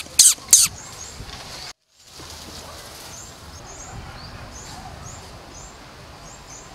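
Three sharp, high-pitched squeaks in quick succession at the start. After a short dropout, a small bird chirps over and over in the background, short high notes about twice a second over faint outdoor ambience.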